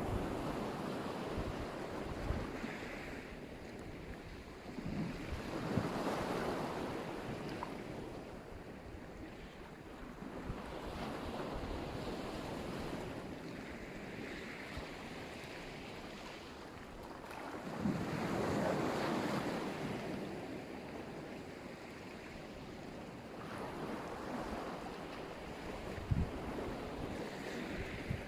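Black Sea surf: waves washing onto the shore in slow swells every five or six seconds, the biggest about two-thirds of the way through. Wind buffets the microphone underneath.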